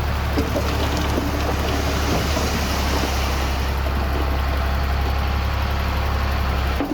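Heavy diesel earthmoving machinery running steadily, a strong low engine hum under a dense rumble of mechanical noise.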